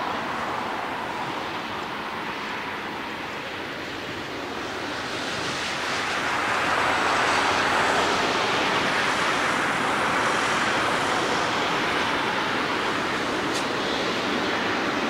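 Jet engine noise from a Boeing 777-300ER's GE90 turbofans during takeoff: a steady roar that swells from about five seconds in, then holds loud.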